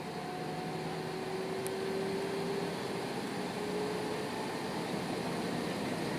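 Airbus A320-214's CFM56 jet engines and airflow heard from inside the passenger cabin: a steady rush with faint engine tones that edge slightly upward as the noise grows a little louder.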